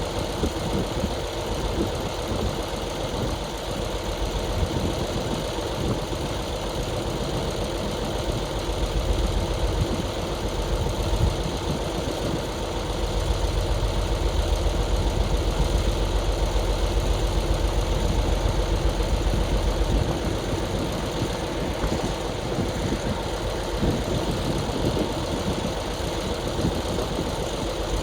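Heavy diesel engine running steadily, with a deeper, louder rumble from about nine to twenty seconds in.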